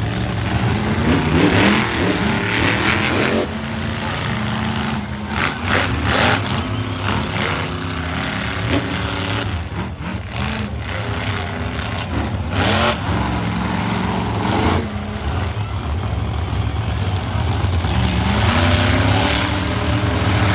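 Monster truck engine running loudly and revving several times, the pitch rising and falling, most clearly near the start and again near the end.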